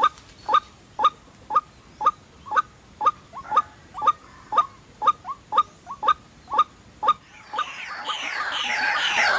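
White-breasted waterhen (ruak-ruak) calling: short clucking notes repeated about twice a second. About seven and a half seconds in they give way to a louder, dense chorus of overlapping calls that keeps building.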